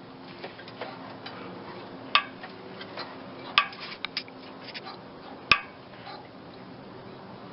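Scattered sharp metallic clinks and knocks, a handful of them a second or so apart, from hand tools and loose exhaust parts being handled while the old muffler is worked off the car.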